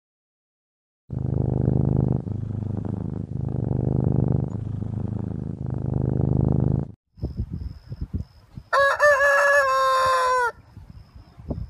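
A big cat growling low in four long, rough stretches, followed by hens clucking and a rooster crowing once, a long crow that drops in pitch at its end.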